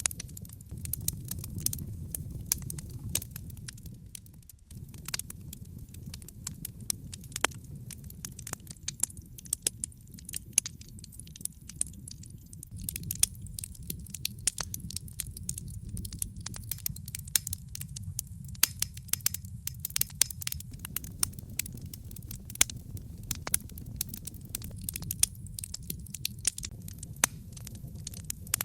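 Wood fire burning in a fireplace: logs crackling with frequent sharp pops and snaps over a steady low rumble of the flames.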